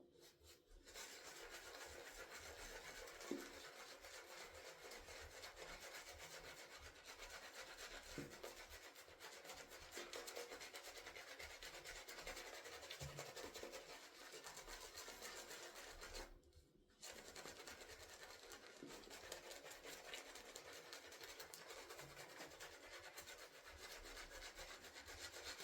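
Faint, steady rubbing and swishing of a Mühle silvertip fibre shaving brush working up soap lather, with a short pause about two-thirds of the way through.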